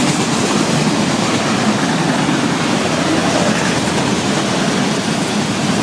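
Florida East Coast Railway freight train's intermodal cars rolling past close by: steady, loud wheel-on-rail noise.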